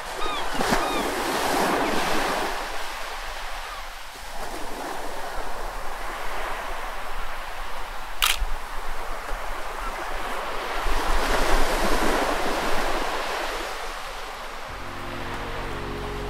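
Surf washing in against a rock jetty and breaking along the beach, swelling and easing twice. A single sharp click sounds about halfway through.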